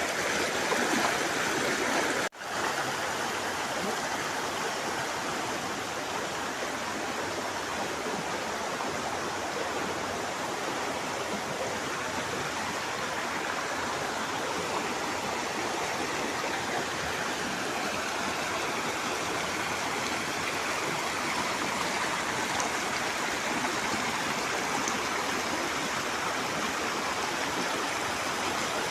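River water flowing steadily over rocks, a continuous rushing sound, with a brief break about two seconds in.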